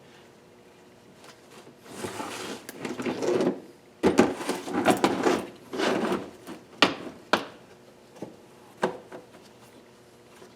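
Engine parts being handled and shifted on a work surface: scraping and rubbing, then a run of sharp knocks and clunks, with a few single knocks near the end.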